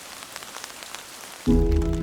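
Steady rain falling, with scattered individual drops ticking. About one and a half seconds in, music with sustained notes cuts in loudly over it.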